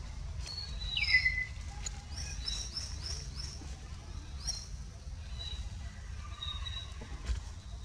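Birds calling: a series of short, high, rising chirps, with one louder falling call about a second in. A low steady rumble runs underneath.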